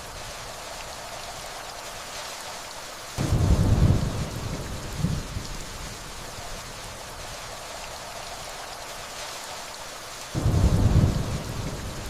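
Steady rainfall with distant thunder: two low rumbles that come on suddenly, one about three seconds in and another near the end, each fading over a second or two.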